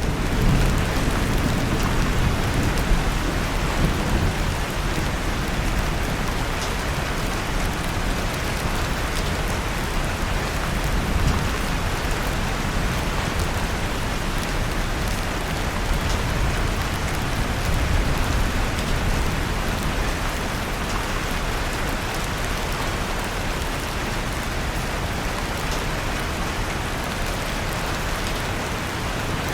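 Steady rain with a deep, continuous rumble underneath and faint scattered ticks and crackles over the top, as of a wood fire burning in a fireplace.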